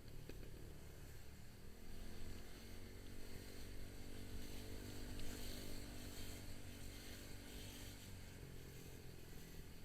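Motorcycle engine running on the move, its pitch rising and then easing back down over several seconds, over a steady hiss of road and air noise.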